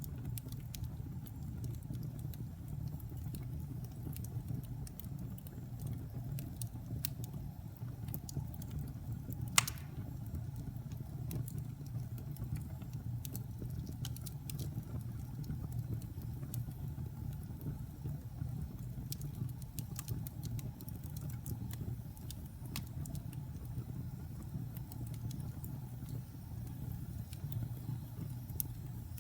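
Wood fire in a fireplace crackling over a steady low rumble, with scattered small pops and one sharper pop about ten seconds in.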